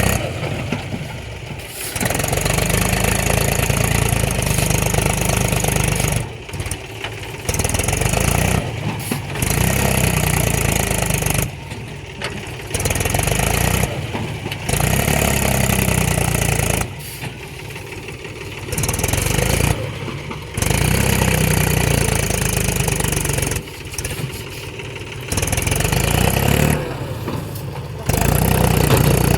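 Mahindra 275 DI tractor's three-cylinder diesel engine revving hard in about seven long surges, easing back between them, as the fully loaded tractor strains to pull itself out where it is stuck.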